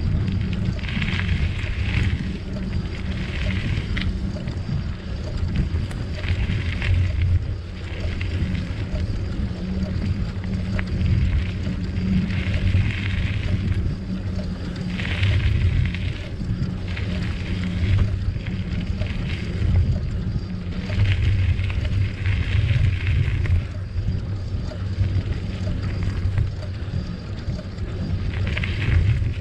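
Riding noise from a moving bicycle: wind rumbling on the microphone over the sound of the tyres on the trail, with swells of hiss every second or two.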